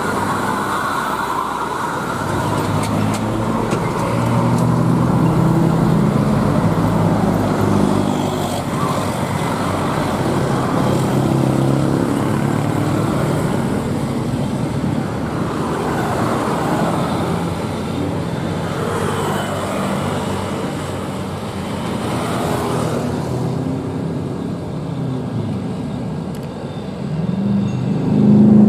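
Heavy trucks' diesel engines labouring up a steep climb, their engine notes rising and falling as they pass, with a louder truck coming up near the end.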